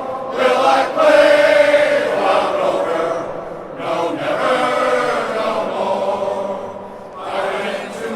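Men's glee club singing together in phrases, with a brief dip about seven seconds in before the voices come back.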